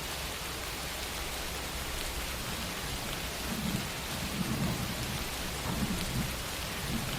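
Wind blowing outside: a steady rushing hiss, with soft low rumbles in the second half.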